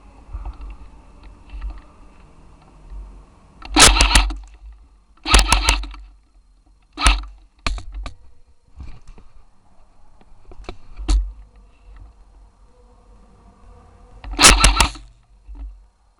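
Airsoft electric rifles firing: two full-auto bursts about four and five and a half seconds in, a few short single shots or very short bursts in the middle, and another long burst near the end.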